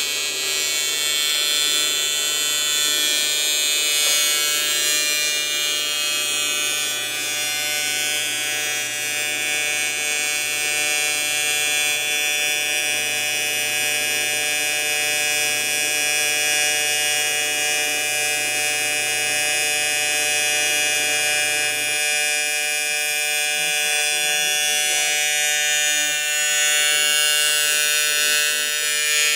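Electric welding arc buzzing steadily on a robot frame, a dense, even electric buzz; its low tone shifts slightly about three quarters of the way through.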